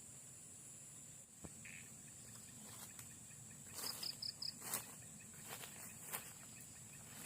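Crickets and other insects trilling steadily in a high, even chorus. From about three seconds in, a string of short, sharp scraping strokes comes in and is the loudest sound, with four quick chirps among them.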